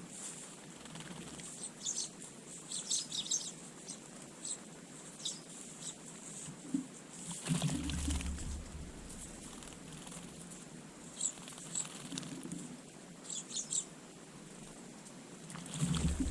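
Small garden birds giving short, very high chirps in two scattered clusters, one in the first few seconds and another about two-thirds through, with a brief low rumble about halfway.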